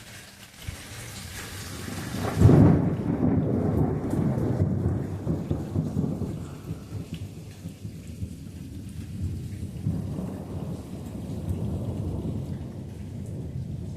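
Steady rain falling, then thunder breaking out about two and a half seconds in, a sudden loud crack-like onset that rolls on as a long uneven rumble for several seconds. The rumble fades and swells again near the end, with the rain going on under it.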